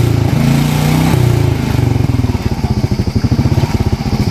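Royal Enfield Bullet 350's single-cylinder engine running on the exhaust, held up at raised revs, then dropping back about two seconds in to an idle with a rapid, even beat of exhaust pulses.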